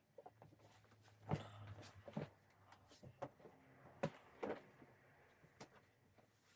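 Faint, scattered knocks, clicks and light clatters of household items being picked up and set down while sorting belongings in a small room.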